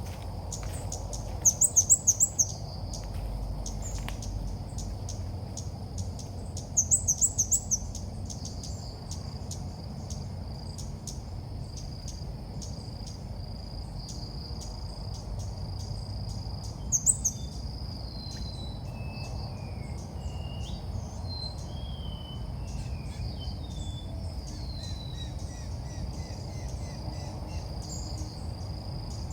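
Red-whiskered bulbul calling: three loud bursts of rapid high chirps, about 2, 7 and 17 seconds in, then softer whistled phrases. A steady high insect drone runs underneath.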